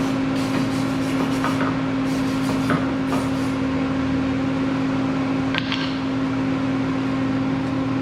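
Steady low electrical machine hum, with a few light clicks and taps: about a second and a half in, near three seconds, and between five and six seconds.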